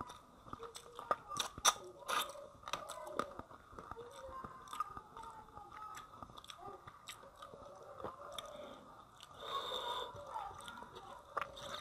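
Close-up mouth sounds of a person chewing a mouthful of rice and fish curry, with many irregular sharp wet clicks and smacks.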